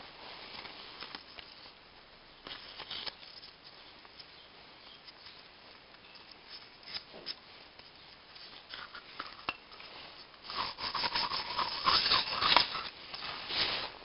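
Fine abrasive paper rubbing by hand on a cylinder head's manifold mating face, a run of irregular scratchy strokes that grows louder and quicker about three-quarters of the way through.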